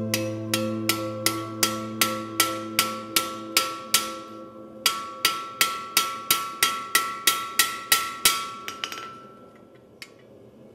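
Hammer blows on metal at an anvil, evenly paced at about three a second, each leaving a short metallic ring. The blows pause briefly about four seconds in, run on again, and stop about eight seconds in.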